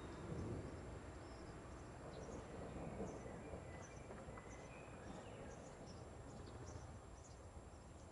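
Faint outdoor ambience: a steady low noise with slight swells, under many short, faint, high chirps scattered throughout.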